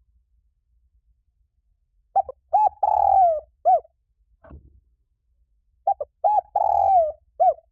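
A spotted dove cooing twice in the same pattern, a few seconds apart. Each call is a couple of short coos, then a longer burred coo that falls in pitch, then a short closing coo.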